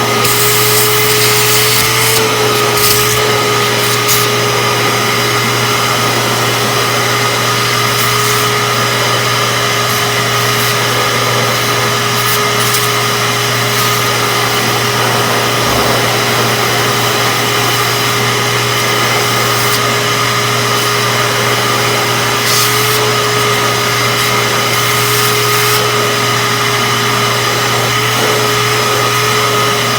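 Shop-Vac HangUp Mini wet/dry vac running steadily with a constant whine while vacuuming shoes; the pitch shifts slightly a couple of times as the suction changes, and there are a few light knocks.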